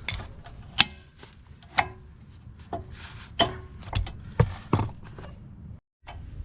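About eight irregular hammer blows on steel parts, several leaving a short metallic ring, over a steady low rumble. The sound cuts out briefly near the end.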